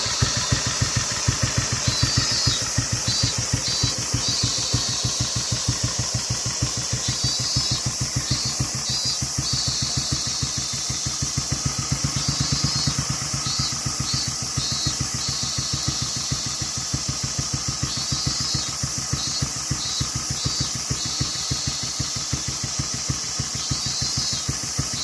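Kawasaki 250 Meguro SG's single-cylinder four-stroke engine idling with an even, steady beat.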